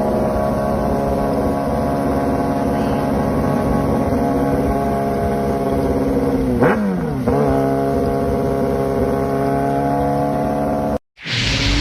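Motorcycle engine running at a steady high speed, with a quick dip in pitch and back up about seven seconds in, like a gear change; it cuts off abruptly near the end.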